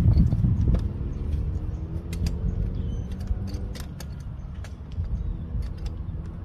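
Steady low rumble with scattered light clicks and knocks from an adjustable wrench being worked on a Mercedes Sprinter's oil filter housing cap, used in place of the proper filter tool.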